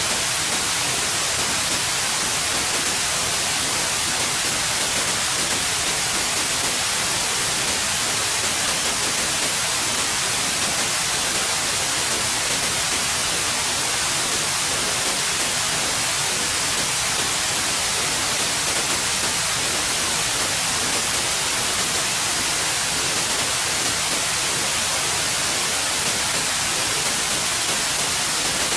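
Steady, continuous white noise: an even hiss, strongest in the high frequencies, unchanging in level.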